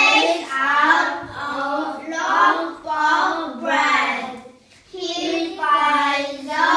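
A child singing a song in a high voice, phrase after phrase, with a short pause for breath about four and a half seconds in.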